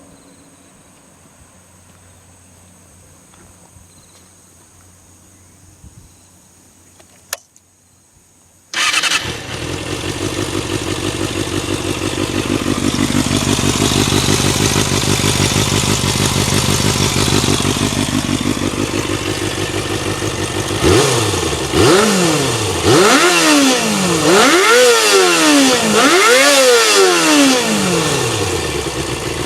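Kawasaki Balius ZR250A's 250 cc inline-four running through a WR'S aluminium full exhaust with the end baffle fitted: after a single click, the engine starts abruptly about nine seconds in and settles into a steady fast idle. From about twenty-one seconds the throttle is blipped several times, each rev rising and falling quickly, before it drops back to idle.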